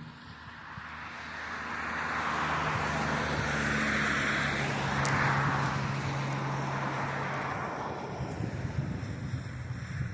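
A car passing on the road, its tyre hiss swelling to a peak and fading away over several seconds, over a steady low hum.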